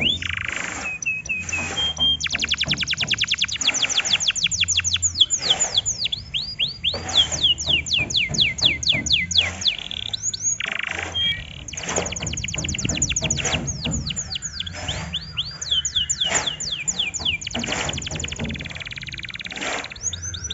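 Domestic canary singing a long, varied song: fast trills of rapidly repeated notes alternating with runs of downward-sweeping whistled notes, with a few brief pauses.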